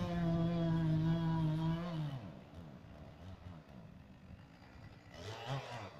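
Chainsaw engine held at high revs with a steady note, winding down about two seconds in, then a short rev near the end.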